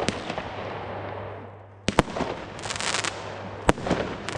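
Ironheart 103-shot firework compound firing. Sharp shell bursts come at the start, twice close together about two seconds in, and again just under four seconds in, each dying away in an echoing rumble. Bursts of crackling come between them.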